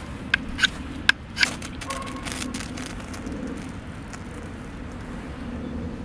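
A ferro rod (fire steel) struck four times in quick succession in the first second and a half, short sharp scrapes throwing sparks to light a waxed jute rope. After them there is a steady low rumble.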